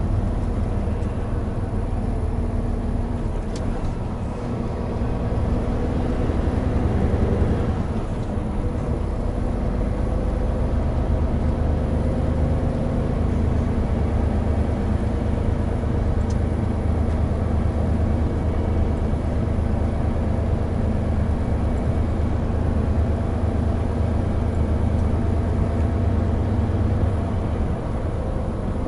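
Hino Profia heavy truck's diesel engine running steadily on the road, with tyre and road noise. The engine note dips briefly about four seconds in and builds again.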